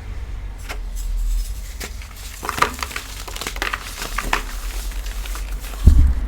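Gym chalk crushed and crumbled by hand: a run of dry, crunchy crackles, busiest in the middle, then a dull thump near the end.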